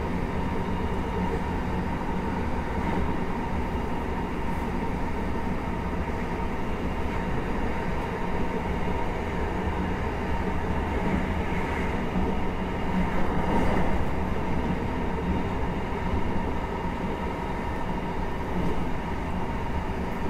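Running sound inside a JR Hokkaido 733 series 3000-subseries electric train at speed: a steady rumble of wheels on rail with a constant hum, swelling briefly louder about two-thirds of the way through.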